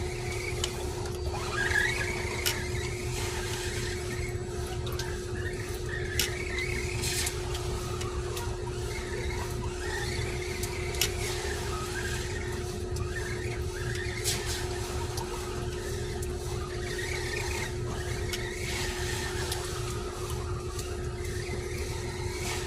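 Arrma Granite 1/10-scale electric RC truck motor whining up and down in repeated rises and falls as the truck accelerates and slows. A few sharp clicks come through, and a steady low hum runs underneath.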